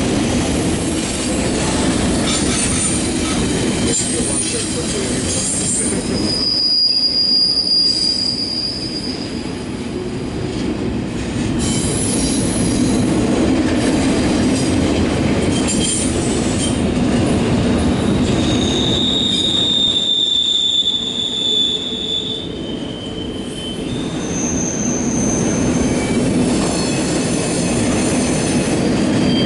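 CSX intermodal freight train's double-stack container well cars rolling past at steady speed, the wheels rumbling on the rails. High-pitched wheel squeals sound several times: about 6 seconds in, again around 19 seconds, briefly around 24 seconds, and once more at the very end.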